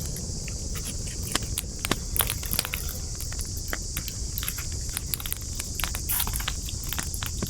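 Wood campfire burning, crackling with irregular sharp pops over a low steady rumble of the flames. A steady high-pitched hiss runs underneath.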